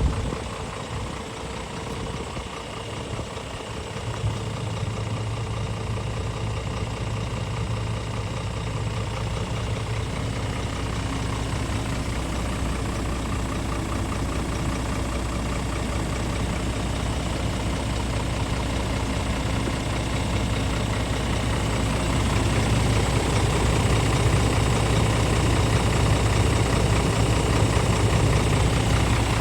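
Scania R450 truck's 13-litre six-cylinder diesel engine idling steadily, growing a little louder in the last third.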